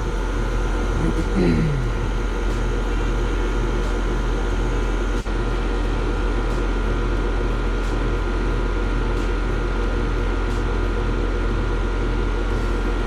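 Amana split-system outdoor condensing unit running steadily: the freshly replaced compressor humming with the condenser fan, while it pulls refrigerant in from a charging tank. A single sharp click about five seconds in.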